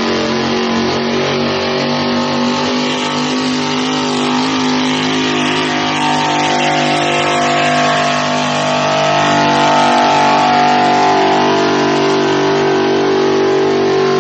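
Pulling truck's engine held at full throttle as it drags a weight-transfer sled down the pull track: one loud, steady engine drone that swells slightly about two-thirds of the way through.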